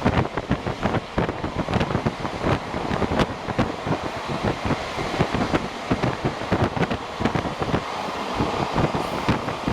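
Locomotive-hauled passenger train running at speed: a continuous rumble of wheels on rail with many irregular clacks and knocks, and wind noise on the microphone.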